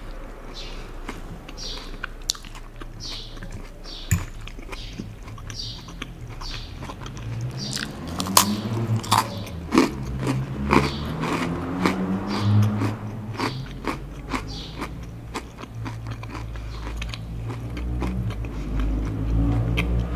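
Close-miked chewing of a crunchy mouthful of salad greens, with many crisp crunches that grow denser and louder from about eight seconds in.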